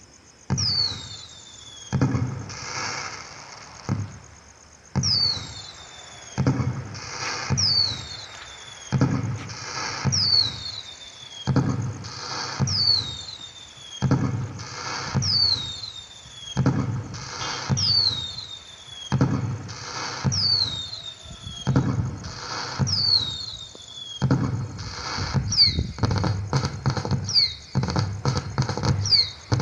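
Electronic firework sound effect from an LED pixel cracker light's sound module: a falling whistle followed by a bang and crackle, repeating about every second and a half. Near the end the bangs come faster, with rapid crackling.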